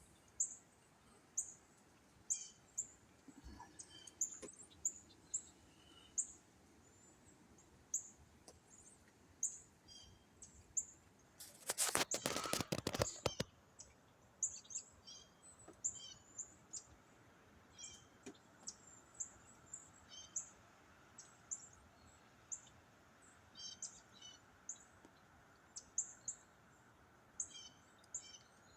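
Small birds chirping, short high chirps about once a second, some sliding down in pitch. About twelve seconds in, a louder noisy burst lasting under two seconds covers them.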